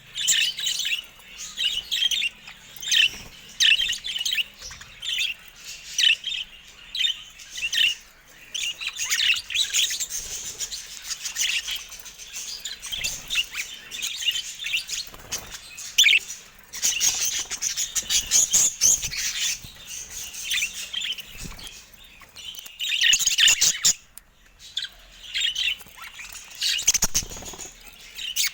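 A group of budgerigars chattering: rapid, continuous chirps and warbles with a few short clicks.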